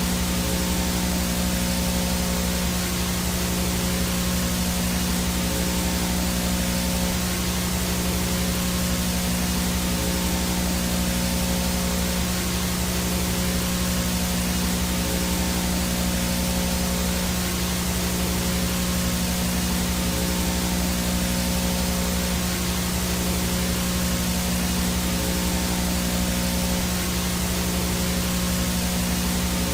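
VHS static noise: a steady, even hiss with a constant low hum and a faint high whine running under it, unchanging throughout.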